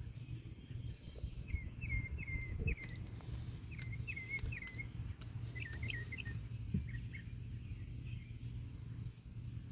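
A bird chirping in groups of short, quick repeated notes, from about a second and a half in until about seven seconds, over a low steady hum and a few faint knocks.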